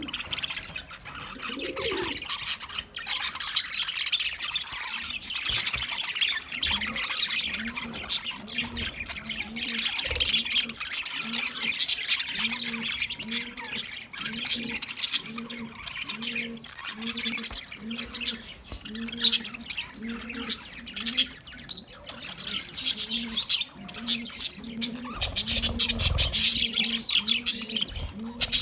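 A flock of parrots chattering and squawking, many short high calls overlapping without pause. Under it, a low note repeats about one and a half times a second.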